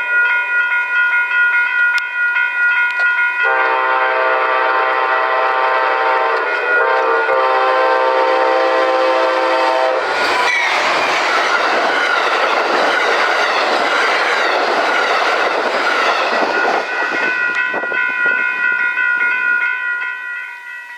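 A train sounds a long horn blast of about six seconds, then rushes past with loud rolling noise that fades away over the last few seconds. A steady high ringing goes on before the horn and returns after the train has passed.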